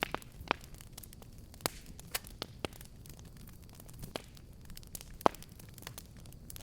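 Wood fire crackling: a low rumble of burning under irregular sharp pops and snaps, the loudest about five seconds in.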